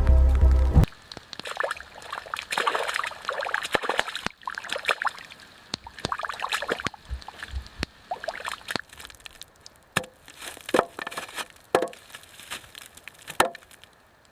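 Wet mud and water being worked by hand: irregular scrapes, sharp knocks and sloshing splashes. Background music stops about a second in.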